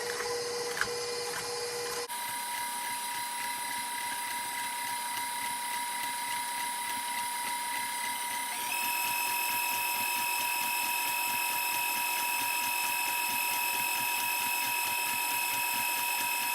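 KitchenAid stand mixer running with a steady motor whine as it whips solid oils for soap, its speed stepped up about two seconds in and again about eight and a half seconds in, a little louder after the second step.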